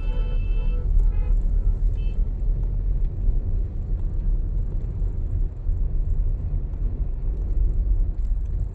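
A car being driven, giving a steady low rumble of road and engine noise.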